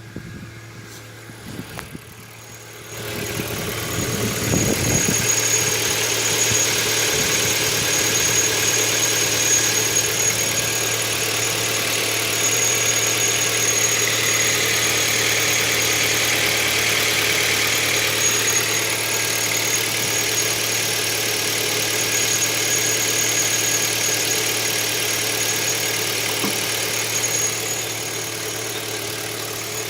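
Kia Ceed JD engine idling with a steady high-pitched whine from the alternator. The whine is always present under light electrical load, and the dealer put it down to the alternator's bearings. It gets much louder about three seconds in.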